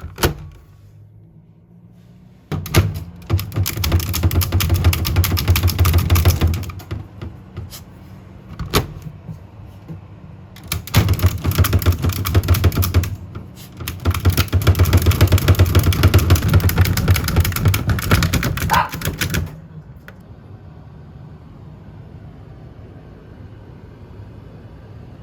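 Rapid runs of sharp taps or knocks, in three spells of a few seconds each with a couple of single knocks between, then quiet room tone for the last few seconds.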